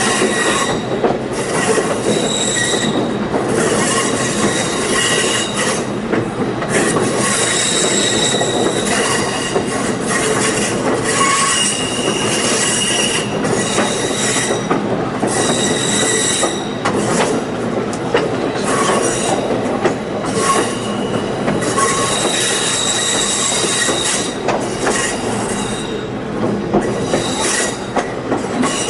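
Passenger train cars rolling on the rails, with steel wheel flanges squealing against the rail in short high squeals that come and go over a steady rumble, as the train rounds curves.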